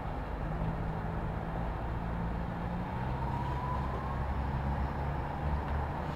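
Steady city street traffic: a constant wash of vehicle noise with the low hum of idling and passing engines, and a faint rising whine about halfway through.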